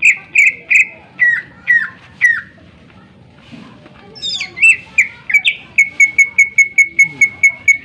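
Green leafbird (cucak ijo) singing: about six loud, sharp notes falling in pitch, a short lull, then a fast, even run of short notes at one pitch, about six a second, through the last few seconds.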